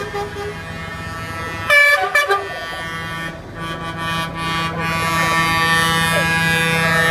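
Trucks' air horns sounding as the lorries pass: two short loud blasts about two seconds in, then horns held and growing louder toward the end, over the low drone of the trucks.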